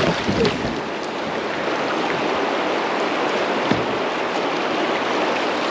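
Rushing creek rapids around a kayak, a steady hiss of moving water, with a single knock about four seconds in.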